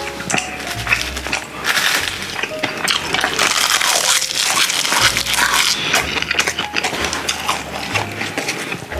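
Close-miked eating: a sheet of crisp seasoned laver (gim) crackling as it is bitten and chewed, with wet mouth sounds and a few chopstick clicks.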